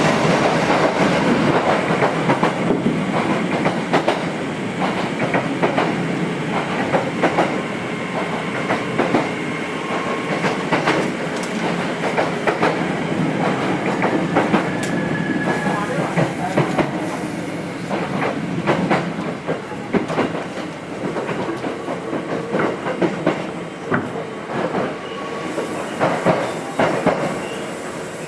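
Nose Electric Railway 5100 series electric train running, heard from inside the car: steady wheel and rail rumble with the wheels clicking over rail joints, the running noise slowly easing toward the end.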